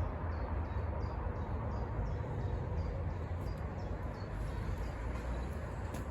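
Outdoor ambience: a steady low rumble, with a faint short high chirp repeated about twice a second.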